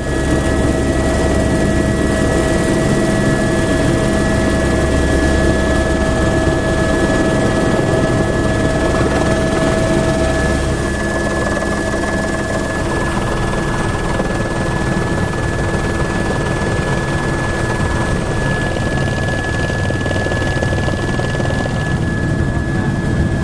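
Helicopter running steadily, a dense rush of rotor and engine noise with a steady high whine through it.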